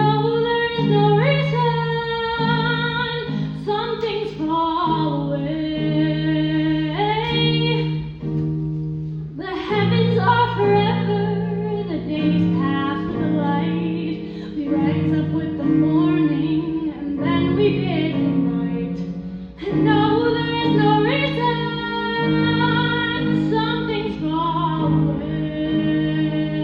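A female solo voice sings sustained, wavering phrases with vibrato over a steady instrumental accompaniment of held low notes, with brief breaths between phrases about ten and twenty seconds in.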